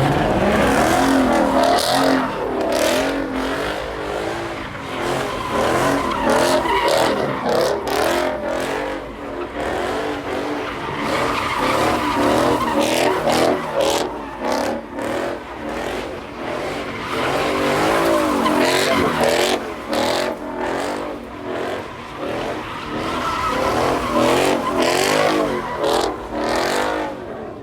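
Car tires squealing and screeching through skids, the squeal wavering up and down in pitch and never letting up, with many sharp crackles mixed in.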